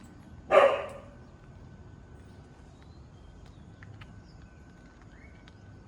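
A dog barks once: a single short, loud bark about half a second in.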